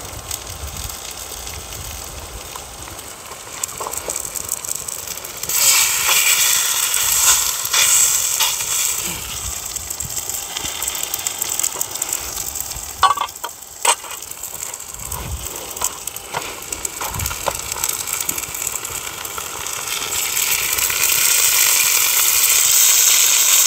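Breaded sea bass cutlets sizzling in hot oil in a pan over a wood fire. The sizzle rises sharply about five seconds in and swells again near the end, with a couple of sharp clicks about halfway through.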